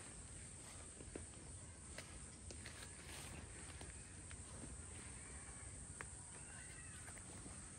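Faint outdoor farm sounds: scattered light clicks and rustles, with two brief faint animal calls about five and six and a half seconds in.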